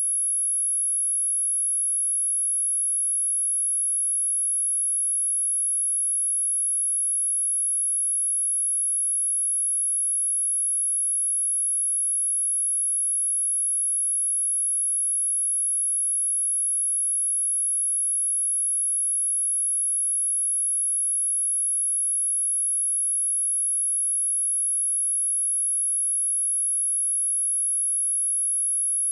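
A single steady, very high-pitched pure sine tone at 10753 Hz, held unchanged at constant loudness: a speaker test tone.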